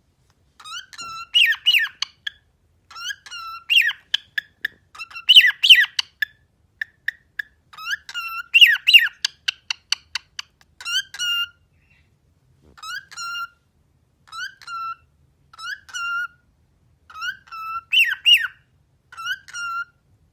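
Cockatiel whistling and chirping in a long string of short, repeated calls, many of them quick upward-gliding whistles, with a fast run of sharp clicky notes about halfway through.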